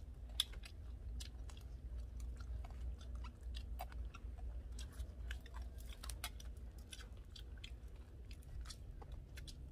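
Someone chewing crisp fried fish: a steady run of small crunches and wet clicks, over a low steady hum.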